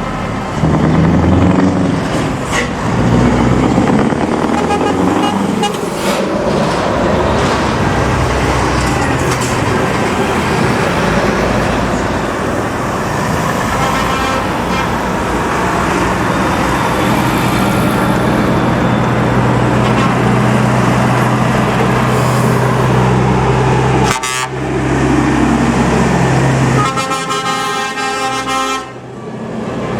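Heavy lorries driving past with their diesel engines running, with horns being tooted. A long horn blast sounds near the end.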